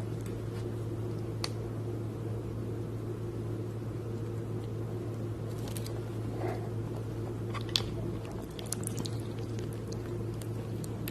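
Crispy fried chicken being bitten and chewed close to the microphone: a few scattered crunchy crackles and wet squishing over a steady low hum.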